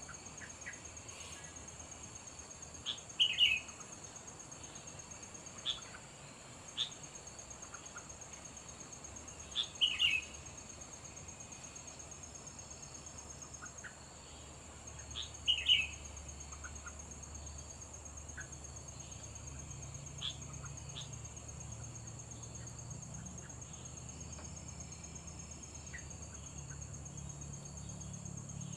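Sooty-headed bulbul giving short bubbly calls, three louder bouts roughly six seconds apart and a few fainter chirps between them, over a steady high-pitched whine.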